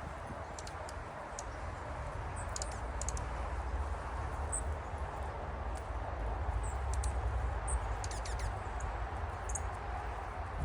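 Small wild birds giving short, high chirps and tweets, about a dozen scattered through, some in quick clusters, over a steady low rumble.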